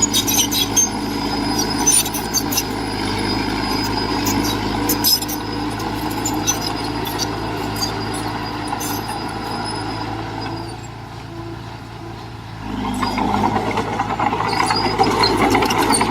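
Heavy diesel earthmoving machinery running, with sharp metallic clanks over the engine in the first few seconds. The engine eases off about eleven seconds in and picks up louder again about a second and a half later.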